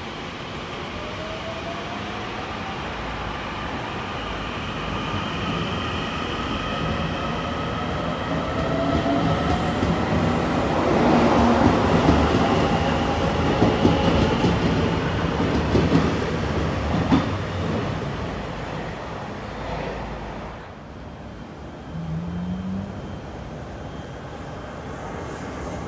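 Taiwan Railway electric train running through the station, its motor whine rising in pitch as it speeds up, with wheels clacking over the rail joints. The sound swells to its loudest about halfway through, then fades.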